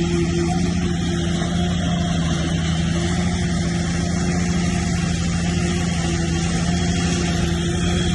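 Heavy diesel engine of earthmoving machinery running at a steady speed: a constant low drone that holds without change.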